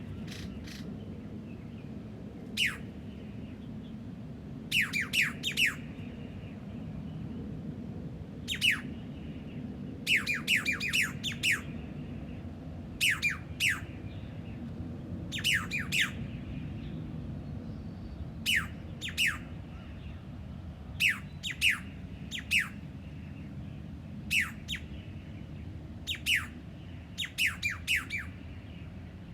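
A bird giving short, sharp calls that sweep quickly downward in pitch, singly or in quick runs of two to four, repeated every second or two over a steady low hum.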